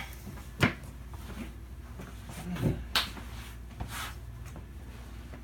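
A few scattered knocks and clicks of tools or parts being handled, the sharpest about half a second in and about three seconds in, over a steady low hum.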